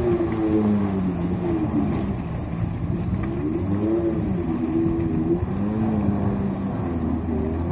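Niva 4x4's engine running under load, its pitch rising and falling several times as the car drives through a river covered in thin ice.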